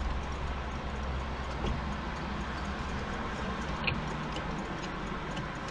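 Steady low road and engine rumble inside a car, with a faint, regular ticking over it.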